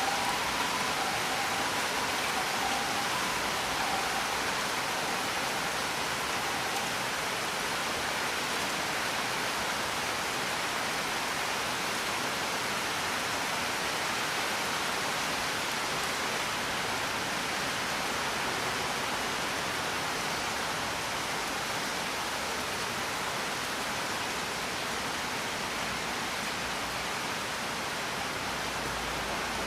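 Steady, even rain hiss with no let-up. A few faint high tones die away in the first few seconds.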